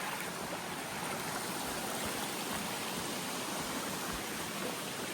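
Creek water rushing and splashing over rocks in a steady, even wash.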